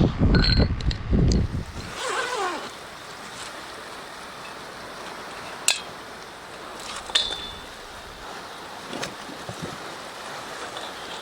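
Steady wash of sea surf at the shore, with loud low thumps in the first two seconds and a few isolated sharp clicks later on.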